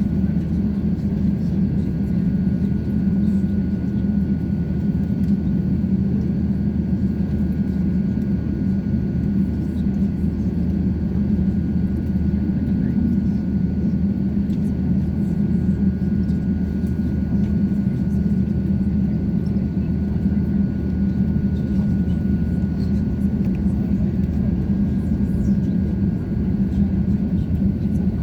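Steady engine and airflow rumble of an Airbus A350-900 heard inside the cabin, with a thin, steady high whine over it and no change in level.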